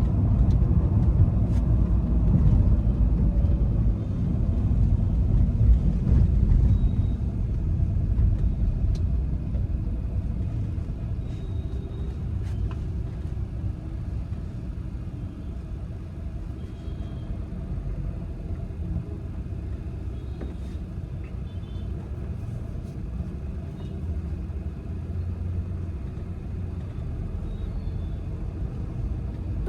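Volkswagen Vento's stiffly sprung suspension and tyres rumbling over a rough, broken road surface. The rumble is heaviest for the first several seconds, then eases to a steadier, lower road noise.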